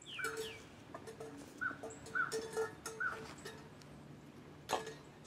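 Birds calling in woodland: a run of short calls roughly half a second apart, with quick high descending chirps at the start. A single sharp click sounds near the end.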